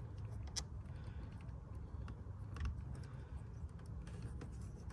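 Scattered light plastic clicks and handling noise as fingers work at a headlamp bulb's electrical connector, trying to unclip it.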